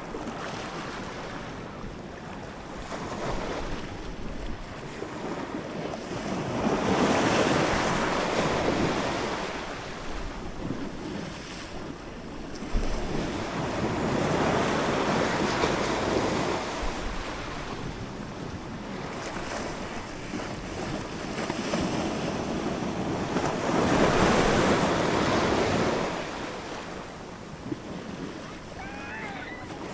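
Ocean waves surging and washing in. The sound rises and falls every several seconds, with three bigger swells.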